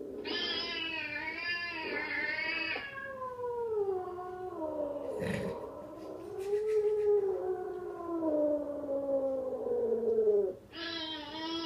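Cats yowling (caterwauling) from a played-back recording: a wavering call for the first few seconds, then one long drawn-out yowl that slides up and down in pitch and breaks off near the end.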